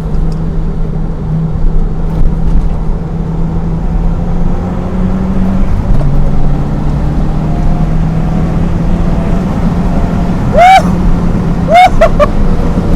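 Second-generation Mitsubishi Eclipse's engine pulling hard under acceleration, heard from inside the cabin: its pitch climbs steadily, drops at an upshift about six seconds in, then climbs again. Near the end come two short high whoops from the driver.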